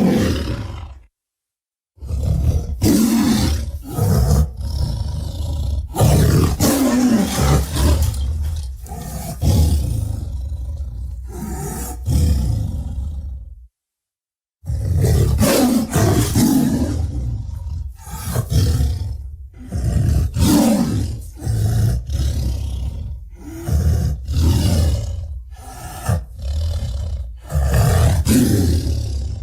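Tyrannosaurus rex roar sound effects: a string of loud roars one after another, each with a heavy low rumble under it, broken by two short silences, about a second in and near the middle.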